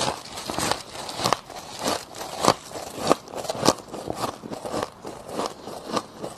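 Close-miked biting and chewing of crushed freezer frost ice: a rapid run of sharp crunches and crackles, with a louder crunch about two and a half seconds in.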